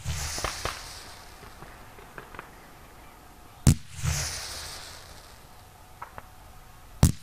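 Aerial fireworks heard close to the firing batteries: sharp bangs about three and a half seconds apart, one about halfway in and one near the end, each followed by a hissing tail and a low rumble that fade over about a second. A few faint pops come in between.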